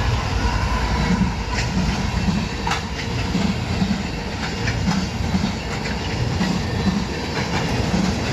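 A train rolling past, its wheels clicking over the rail joints about twice a second over a steady rumble, with a few sharp metallic ticks.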